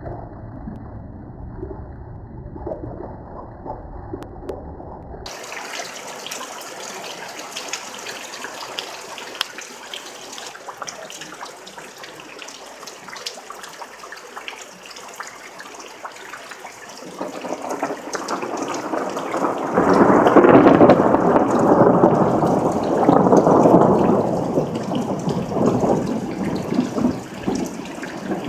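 A thunderstorm: a few seconds of muffled, dull noise give way to a steady hiss of rain. About two-thirds of the way in, a long rolling peal of thunder builds, is loudest a few seconds later, and then slowly fades with the rain still falling.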